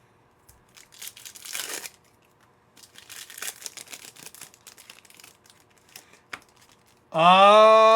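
Foil card-pack wrappers being torn open and crinkled, in two spells of rustling with a single click near the end. A man's voice begins with a drawn-out sound in the last second.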